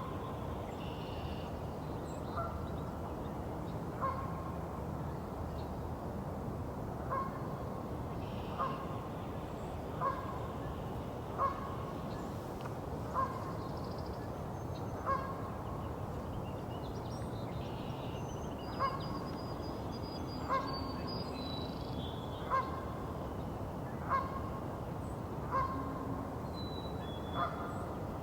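Canada goose honking over and over, one short call every second and a half or two, with the thin high calls of smaller birds above it and a steady low rumble underneath.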